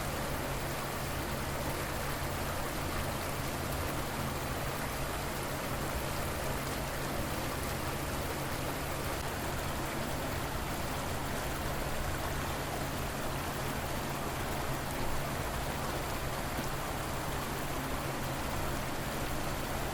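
A river's water rushing and splashing steadily, an even, unbroken wash of sound.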